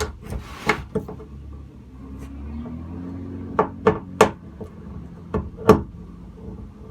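About six sharp knocks and clicks of hand tools on metal boat hardware being worked loose from the hull, most of them in the second half.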